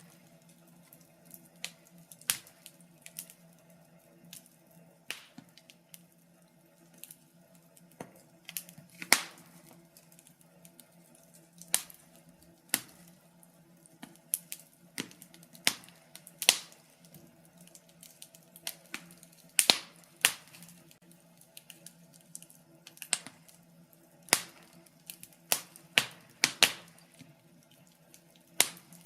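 Wood fire in a fireplace crackling, with irregular sharp pops of burning timber, a few much louder than the rest, over a faint steady low hum.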